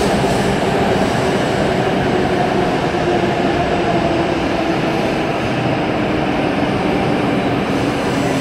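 W7 series Shinkansen train gliding into the platform as it slows to a stop, a steady loud rumble of wheels on rail and running gear. Faint whine-like tones in it drift slowly lower as the train slows.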